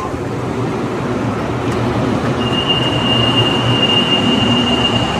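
Running noise of a CAF metro train heard from inside the car, growing gently louder. About halfway through, a thin, steady high-pitched squeal starts and holds for about three seconds.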